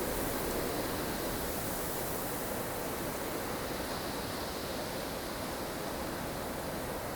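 Steady rushing of storm wind, an even hiss with slow swells and no gusts breaking out.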